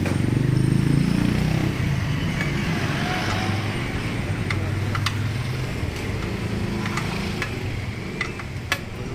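A motor vehicle engine running nearby, swelling about a second in and then slowly fading, with a few sharp clicks scattered through it.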